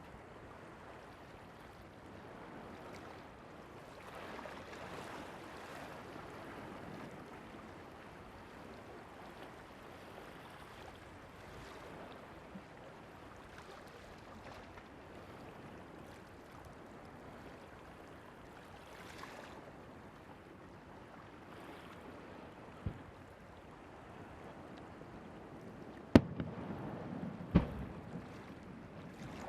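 Steady wash of surf and wind on the beach, then firework shells bursting over the sea: one bang well into the clip, then two loud booms near the end, each with a rolling echo.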